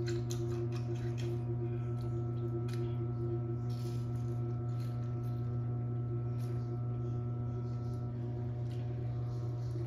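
A person biting into and chewing a whole lime, with scattered soft wet clicks of mouth and teeth, over a steady low hum that carries a few higher steady tones.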